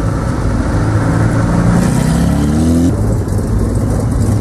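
Car engine running, with a steady low hum and one rev that climbs in pitch for about two seconds, then breaks off abruptly.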